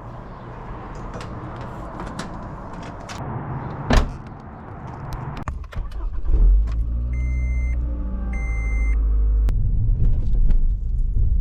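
Clicks and rattling handling noises, then a car engine starting about six seconds in and running on with a steady low rumble; two short electronic beeps sound just after it starts.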